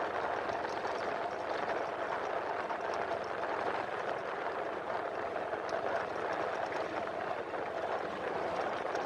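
Motorcycle running steadily under way, its engine and road noise an even rush.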